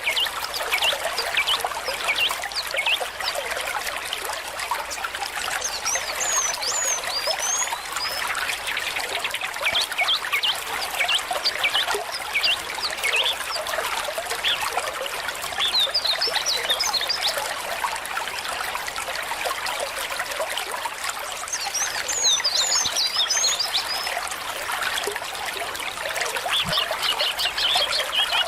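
A shallow stream trickling steadily, with several short runs of quick, high bird chirps over it.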